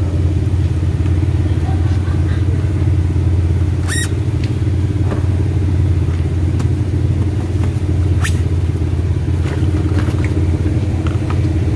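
A car engine idling with a steady low hum, with a few light knocks as a styrofoam box and a long pole are lifted out of the car's open boot, about four and eight seconds in, and a louder knock near the end.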